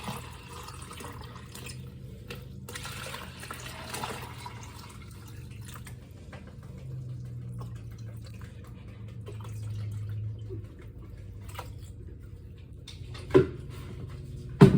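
Dishwasher draining soapy water: water running over a steady low pump hum, with two sharp knocks near the end.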